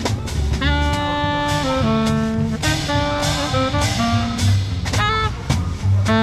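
A small jazz band playing: a horn holds long notes over drums and bass.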